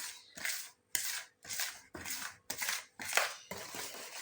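Thick wet plaster of Paris batter being stirred and scraped around its container, a rough scraping stroke about twice a second. The mix is at a medium consistency, neither too thin nor too thick.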